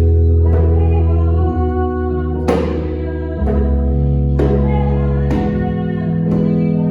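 Worship music: piano accompaniment holding sustained chords over deep bass notes, with a djembe striking about once a second and a voice singing the melody.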